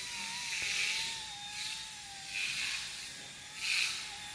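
Small four-propeller RC helicopter hovering after takeoff: a steady motor-and-rotor whine whose pitch wavers slightly, with a rushing hiss that swells and fades about every second and a half as it holds position.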